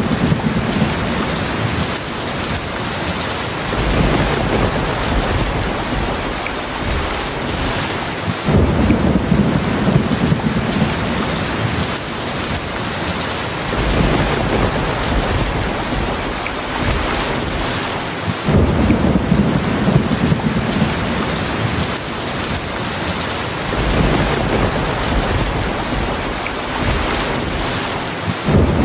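Heavy rain falling steadily, with low thunder rumbles that roll in about every four to five seconds and fade away.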